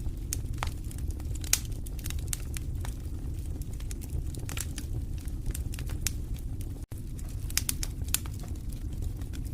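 Wood fire crackling in a fireplace: scattered sharp pops and snaps over a steady low rumble of the flames, with a cluster of pops about a second and a half in and another near the end. The sound cuts out for an instant about seven seconds in.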